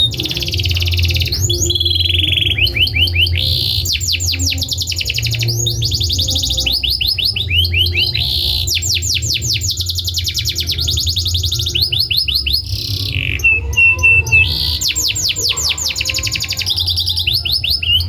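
Domestic canary singing: fast trills of rapidly repeated down-sweeping notes, switching between rolls with short breaks, over a steady low hum.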